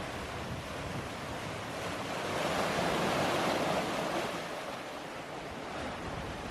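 Open-ocean waves rushing past the hull, with wind. The wash swells louder about two seconds in and dies back again near five seconds.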